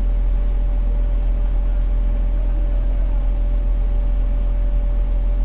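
Fire engine's engine running steadily: a deep, even hum with a thin steady whine above it.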